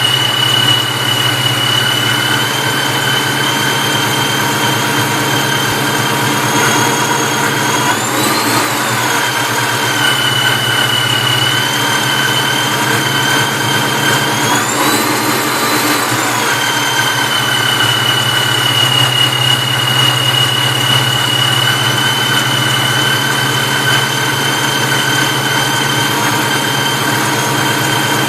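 Vortech V-1 T-trim centrifugal supercharger whining on a running engine over a steady low hum, its pitch rising twice with short revs, briefly about 8 seconds in and for about a second around 15 seconds in. The owner hears a strange hum just off idle and asks whether it is a sign of bad bearings.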